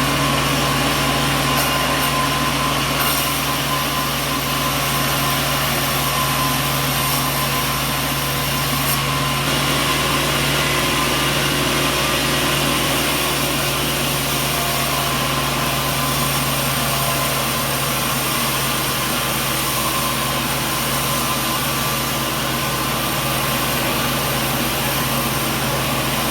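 Sawmill machinery running steadily: a constant engine-like drone with a low hum and a wash of higher mechanical noise, with no breaks.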